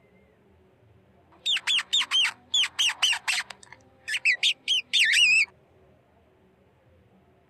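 Rat squeaking: a rapid run of short, high squeaks starting about a second and a half in, then after a brief pause a second run ending in a longer squeak that wavers in pitch.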